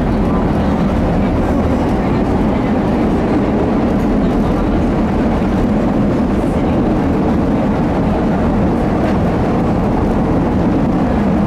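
Steady rumble of a CTA Blue Line rapid-transit train running at speed, heard from inside the rear car.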